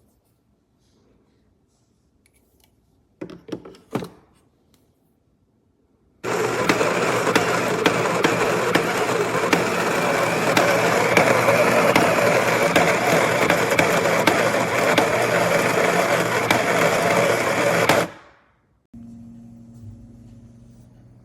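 Breville Barista Touch Impress espresso machine running: after two short knocks, a loud, steady whirring noise with a low hum starts about six seconds in, lasts about twelve seconds and cuts off abruptly.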